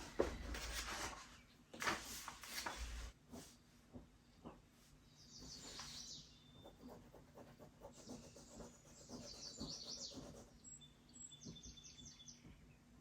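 A small bird singing three short trills of quick high notes, a few seconds apart. In the first few seconds there is rustling and a few knocks of things being handled.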